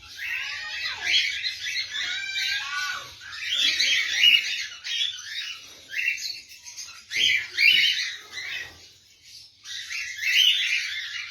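Many caged lovebirds chattering and squawking together in overlapping surges, with a short lull about nine seconds in.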